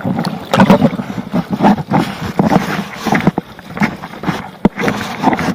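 Water splashing and slapping against a kayak, with irregular sharp knocks.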